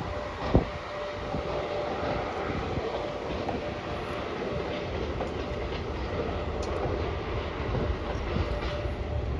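Freight train rolling past, its wheels clicking over the rail joints in a steady rumble, with one sharp knock about half a second in.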